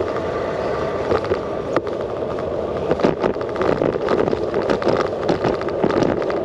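Bicycle riding heard from a handlebar-mounted GoPro: a steady rush of wind and tyre noise, with frequent small rattles and knocks as the bike goes over bumps.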